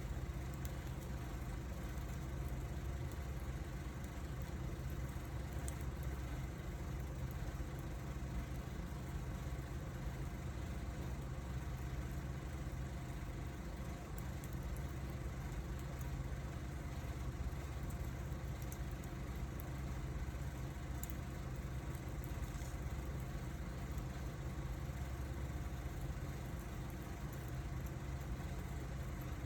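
Wood fire burning: a steady low rumble with a few faint crackles.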